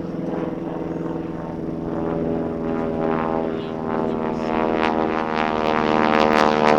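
North American T-6 Texan's Pratt & Whitney R-1340 nine-cylinder radial engine and propeller running steadily in flight, growing louder over the last few seconds.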